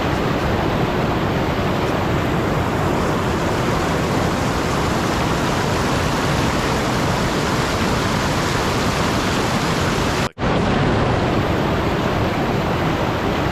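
Steady, loud rushing hiss with no pattern or tone, like rain or falling water, broken by a sudden split-second dropout about ten seconds in.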